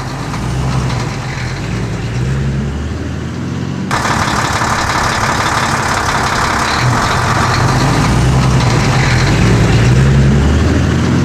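A heavy vehicle engine running steadily with a low, wavering hum. About four seconds in, a rougher, hissier layer of machine noise joins it.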